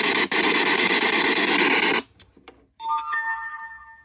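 Loud hiss of radio static from a spirit box, with a brief dropout, cuts off suddenly about halfway through. A couple of faint clicks follow, then an electronic chime of a few ringing tones sounds and fades.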